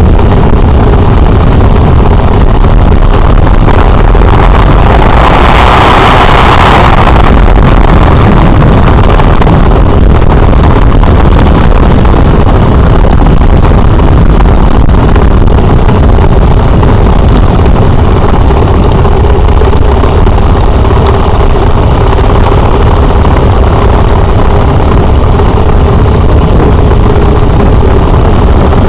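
Motorcycle engine running steadily while riding, a constant drone over a heavy low rumble. About five seconds in, a rush of noise lasts roughly two seconds.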